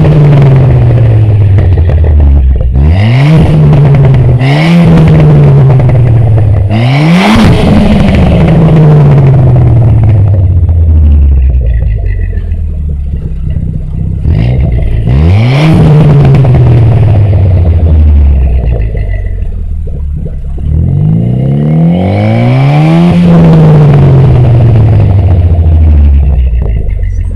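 Ford Fiesta ST's turbocharged 1.6-litre EcoBoost four-cylinder with a 3-inch MBRP cat-back exhaust and Mishimoto cold-air intake, free-revved in a series of about six blips, each climbing sharply and then falling slowly back toward idle, with a longer pause around the middle.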